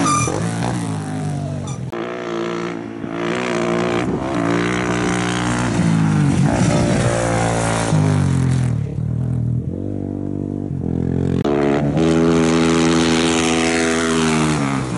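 Single-cylinder KTM rally motorcycle engine revving hard as it passes, the pitch climbing and dropping with throttle and gear changes. The sound breaks off abruptly several times as one pass gives way to another.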